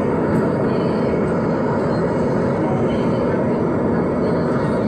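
Scania compressed-natural-gas city bus running steadily, a constant engine and road noise with no change in pitch or level.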